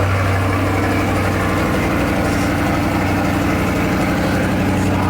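C8 Corvette's V8 idling steadily, a deep even engine note with no revving.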